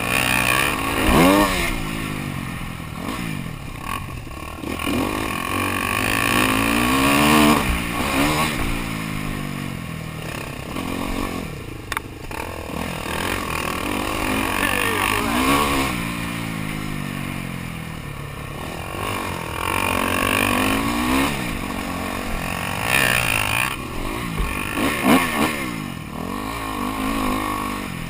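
Motocross dirt bike engines revving up and backing off over and over, the pitch climbing and falling every few seconds.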